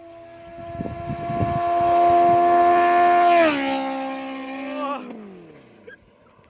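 Honda CBR650F inline-four with an aftermarket SC-Project exhaust, loud, running at high, steady revs. The note swells, drops sharply in pitch about three and a half seconds in, then slides lower and fades away, as when the bike rides past at speed.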